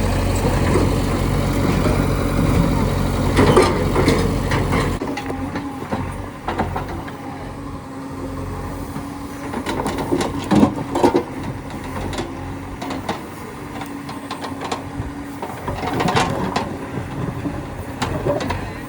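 Heavy diesel engine running loudly and steadily, dropping away abruptly about five seconds in. A quieter stretch follows with a faint steady hum and a few scattered knocks.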